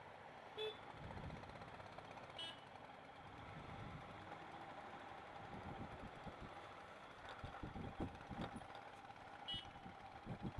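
Slow road traffic: vehicle engines running low and steady, with three short high beeps spread through it.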